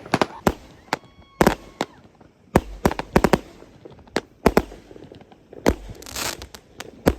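Fireworks going off: a string of sharp bangs at irregular intervals, some followed by a short hissing crackle.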